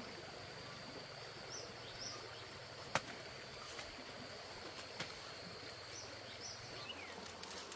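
Quiet rural outdoor ambience: a steady high-pitched insect drone, a few short bird chirps, and a sharp click about three seconds in.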